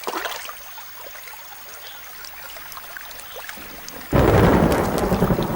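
Quiet rainforest background with a few faint ticks, then about four seconds in a tropical thunderstorm breaks all at once: a loud, deep rumble of thunder and the hiss of heavy rain.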